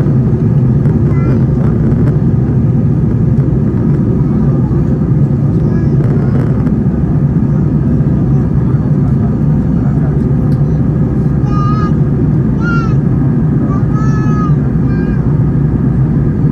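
Jet airliner cabin noise: the steady, loud rumble of engines and airflow heard from inside the cabin in flight. A few faint, brief high calls rise over it about two-thirds of the way through.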